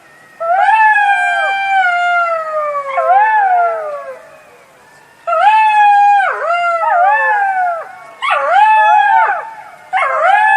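Jackals howling together: long, falling, wavering wails with yipping breaks, several voices overlapping, in four bouts with short gaps between.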